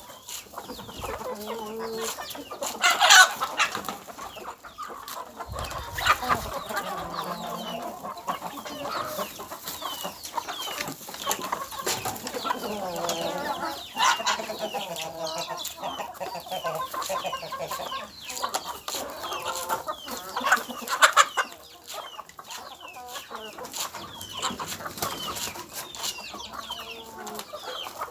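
Domestic chickens clucking and calling continuously, with many short high chirps among the lower clucks. A few sharp, louder sounds stand out about 3, 6, 14 and 21 seconds in.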